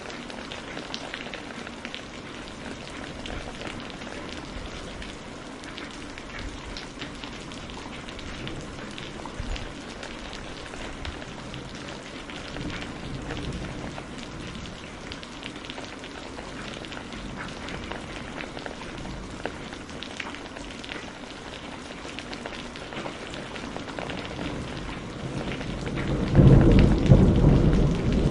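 Steady rain with scattered sharp crackles from burning firewood. A loud low rumble of thunder swells in near the end.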